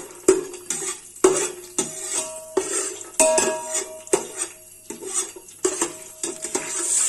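A metal spoon stirring cashew nuts in hot oil in a metal chembu pot: irregular clinks and scrapes against the pot, several of them ringing briefly. Near the end the oil starts to sizzle.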